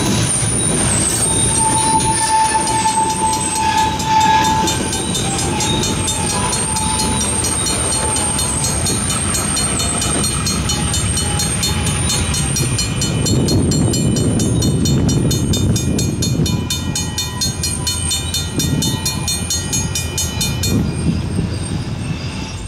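Freight train cars rumbling past and away through a grade crossing while the crossing signal bell rings rapidly and evenly. The bell stops about a second before the end.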